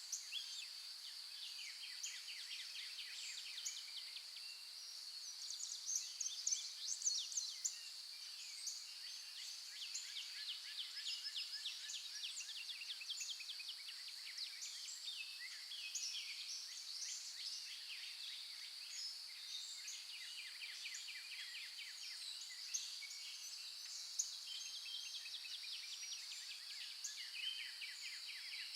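Dawn chorus of several songbirds in a forest: many overlapping chirps, quick trills and rapid series of notes, busiest around six to eight seconds in. A steady high-pitched hum runs underneath throughout.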